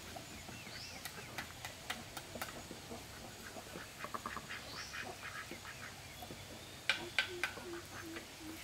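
Animal calls: scattered clicks and short high chirps, then, from near the end, a run of short, evenly spaced low notes at about three a second.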